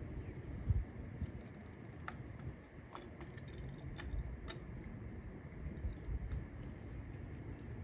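Light metallic clinks and clicks from hand tools, a spark plug socket and extension, being handled while spark plugs go in: a few irregular sharp taps over a low background.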